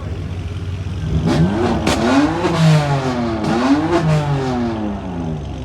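Performance car engine revving hard, its pitch rising and falling twice, with a few sharp cracks about a second or two in.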